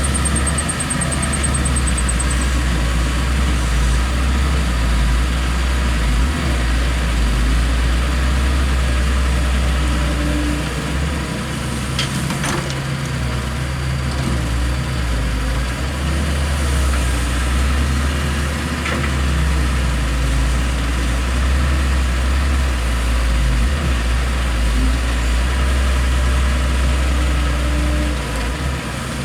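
Heavy construction-machine diesel engine running steadily with a deep drone that eases off for a few seconds around the middle and again near the end. A sharp metallic knock comes about twelve seconds in.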